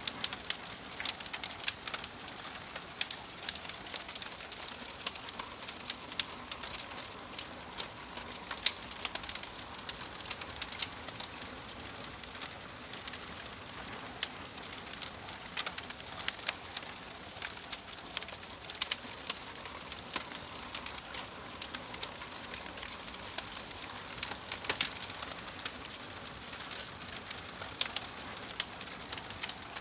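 Wood fire crackling in a fireplace: a steady soft hiss broken by frequent sharp, irregular pops and snaps.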